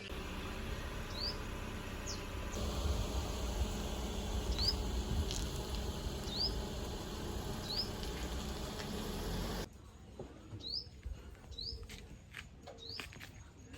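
A small bird repeating a short, high, rising chirp about once a second, over a low rumble that cuts off abruptly about ten seconds in, followed by soft clicks and taps.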